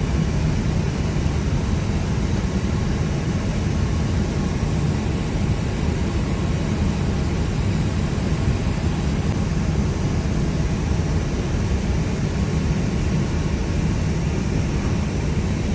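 Steady rumble and hiss inside an Airbus A321 flight deck, from the running engines and the cabin ventilation, on the ground before takeoff.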